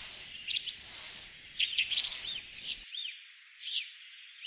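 Small birds chirping: a quick series of short, high, arched chirps and tweets.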